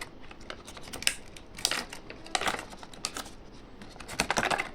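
Candy packaging being handled and opened: irregular crinkles and sharp clicks of plastic wrappers, several a second.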